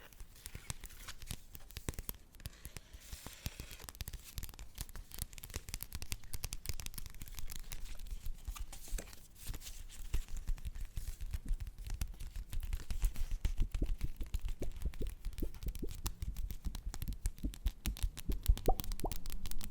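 Paper being handled, with dense, irregular crinkling and crackling that grows louder in the second half.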